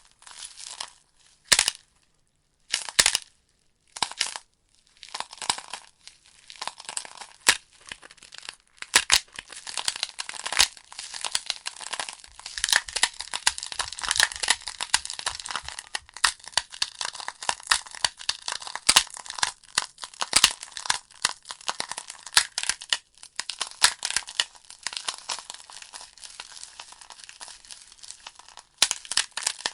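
Burning wood logs in a fireplace crackling, with sharp pops over a steady hiss. The pops come sparsely with short quiet gaps for the first several seconds, then turn dense and continuous.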